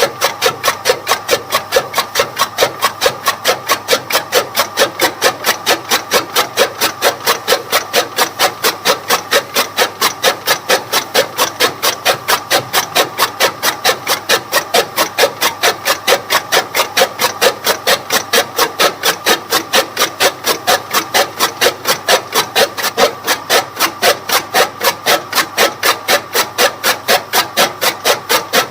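Toka machine (fodder chaff cutter) running, its rotating blades chopping in a steady rhythm of about three strokes a second over a constant mechanical whine.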